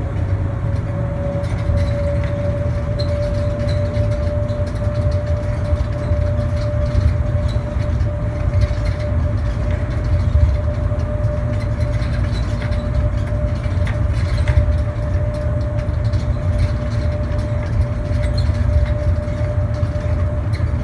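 Airport people-mover shuttle train running along its guideway, heard from inside the car: a steady low rumble with a steady motor whine that climbs slightly in pitch over the first couple of seconds, then holds.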